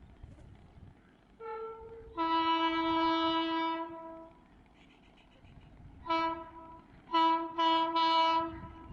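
Train horn sounding a brief blast, then one long blast of about two seconds, then three shorter blasts in quick succession near the end.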